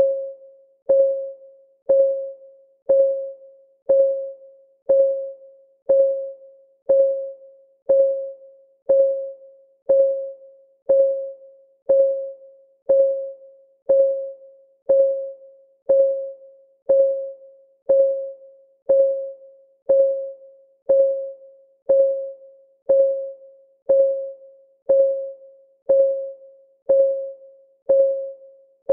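Countdown timer's clock-ticking sound: one tick a second, each a short click with a ringing tone that fades within about half a second.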